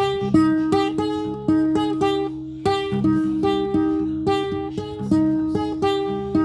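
Acoustic guitar playing, plucked notes and strums over a held low bass, at an even, moderate pace.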